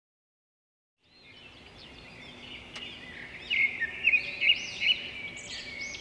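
Birds chirping: many short, quick calls over a steady outdoor background, starting about a second in after silence.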